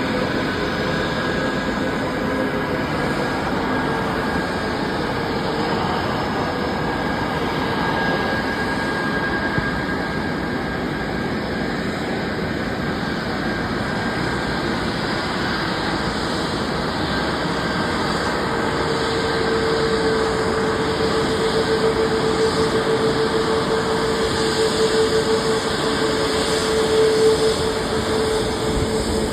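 Boeing 737 MAX jet engines running as a steady, loud rush of noise. A steady whine comes in about two-thirds of the way through and holds.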